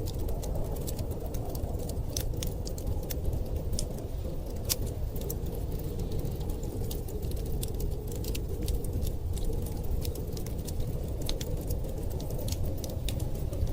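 Wood fire crackling, with frequent irregular sharp pops and snaps over a steady low rumble of storm wind.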